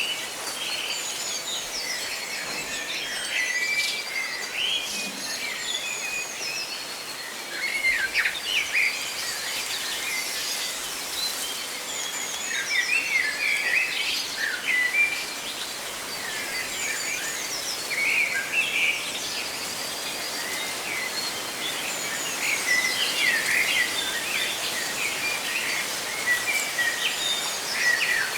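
A chorus of small birds chirping and twittering in quick, overlapping bursts over a steady hiss of rustling leaves.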